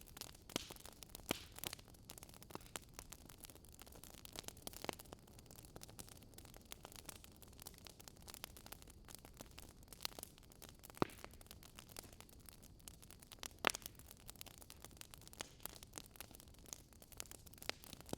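Burning wood crackling faintly, with irregular sharp pops and snaps over a soft hiss, a couple of louder pops in the second half.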